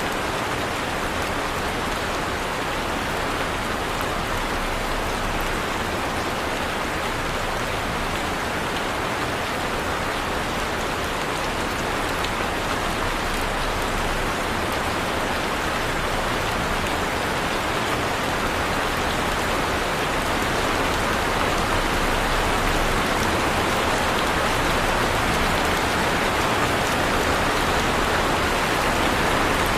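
Heavy rain falling steadily, a dense even hiss of drops on a surface, growing slightly louder in the second half.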